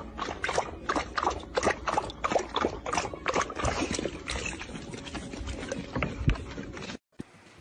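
A rapid, irregular run of clicks and knocks, several a second, stopping abruptly near the end.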